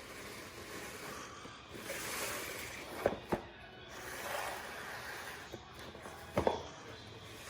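Packaging being handled: on-and-off rustling, with two pairs of sharp clicks or taps, one about three seconds in and one near the end.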